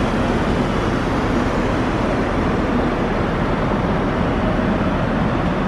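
Steady cabin noise of an Airbus A380 in flight: an even rush of air with a low engine hum.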